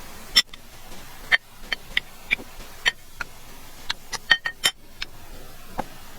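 Close-miked mouth sounds of eating soft, greasy lamb tail fat: about a dozen sharp wet smacks and clicks of chewing at uneven intervals, bunched most densely a little past the middle.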